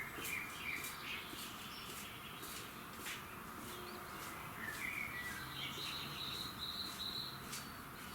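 Birds singing in short warbling phrases over a steady hiss of insects, with sharp ticks scattered throughout; the birdsong is busiest in the second half.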